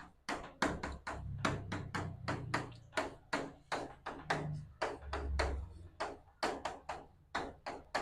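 A rapid, fairly even series of sharp taps, about four a second, with a faint low rumble underneath at times.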